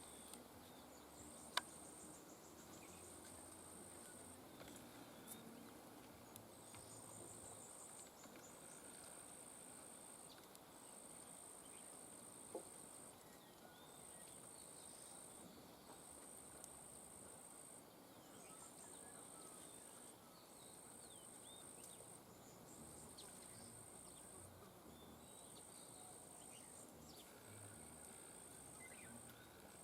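Faint high-pitched insect trill, cricket-like, repeating in bursts of one to two seconds with short pauses between, over quiet outdoor background; a sharp click sounds about a second and a half in.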